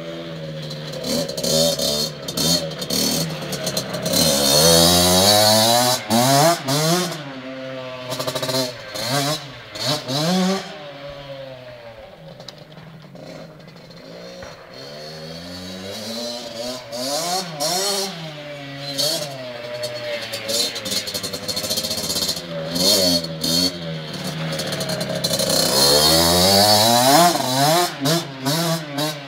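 Kawasaki KX60 two-stroke youth motocross bike being ridden, its engine repeatedly revving up and dropping back as the throttle is worked. It is loudest twice, a few seconds in and again near the end, and fainter in between as it moves away.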